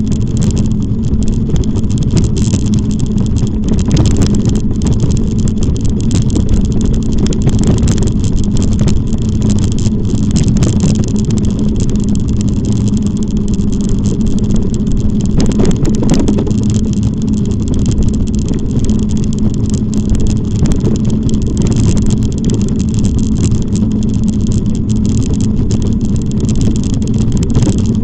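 Steady low rumble of wind and riding noise on the microphone of a camera travelling on a moving e-bike, with a steady low hum running under it.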